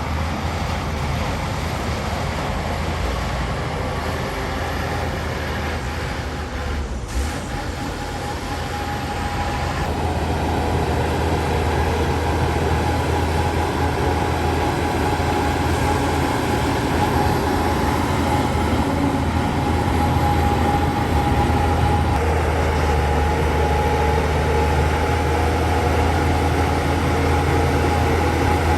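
Bulldozer's diesel engine running steadily under work, a deep hum with a thin steady whine over it. It grows louder about ten seconds in.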